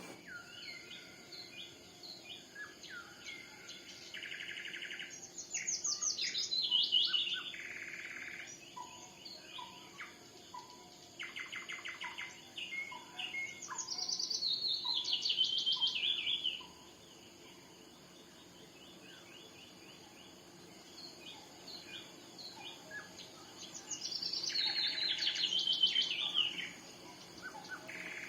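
Songbirds singing: one bird repeats a loud, tumbling song phrase that falls in pitch, three times about ten seconds apart, while other birds add short chirps and buzzy notes between.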